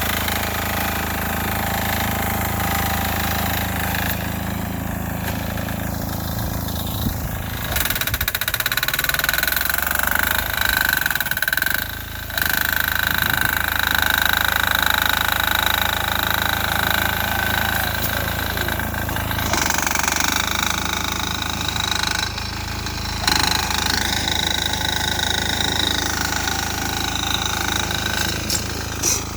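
Sears Suburban garden tractor's 6 hp single-cylinder air-cooled diesel engine running steadily under load while clearing snow. Its note dips and shifts about a third of the way through, then settles again.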